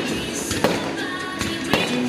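Music with held tones, broken by two sharp firework bangs, one a little over half a second in and one near the end.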